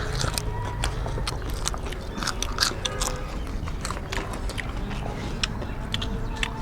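People eating rice and curry: wet chewing and lip smacks, with many short irregular clicks of eating.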